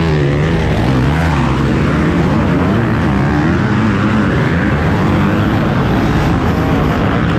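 Motocross bike engines running, a steady loud drone whose pitch wavers up and down.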